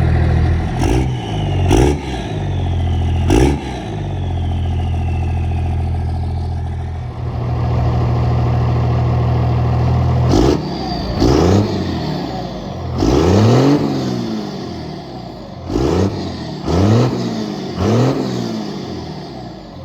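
Cummins 24-valve inline-six turbodiesel running through a straight-piped 4-inch exhaust with the muffler deleted. It idles and is revved in short throttle blips, a quick few near the start and a longer run after a steady stretch, each rising and falling in pitch, with a faint falling whistle after some of them.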